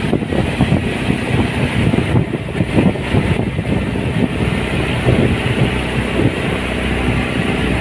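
Motorboat engine running steadily while the boat is under way.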